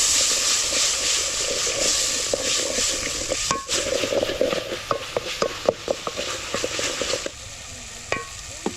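Food sizzling in hot oil in a pan, with a utensil clicking and scraping against the pan from about halfway in as it is stirred. The sizzle drops away abruptly near the end.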